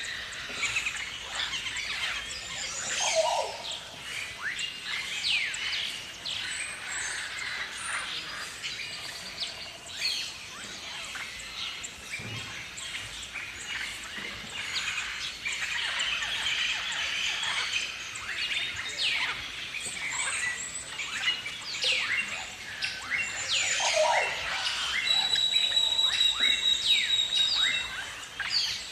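A flock of galahs (rose-breasted cockatoos) calling together: many overlapping short, high, screechy calls that sweep down in pitch. A steady high whistling tone runs for about three seconds near the end.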